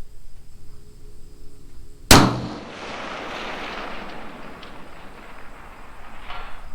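A single rifle shot from a Creedmoor-chambered precision rifle, sharp and loud, about two seconds in, followed by a long rolling echo that dies away over several seconds.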